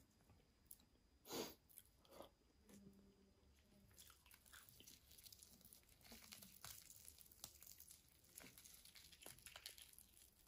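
Close-miked chewing of crunchy food: one crisp bite or crunch about a second and a half in, then soft, continuous crackly chewing from about four seconds in.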